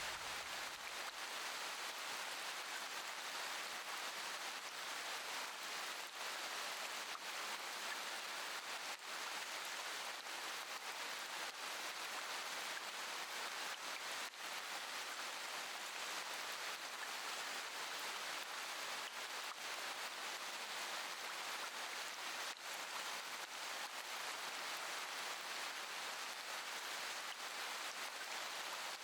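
Steady rain falling, an even hiss with faint scattered drop ticks. A low rumble dies away in the first second.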